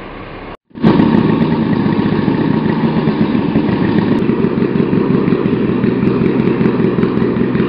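A motor engine running steadily and loudly close by, with a fast, even chugging flutter. It starts abruptly, less than a second in, and cuts off abruptly at the end.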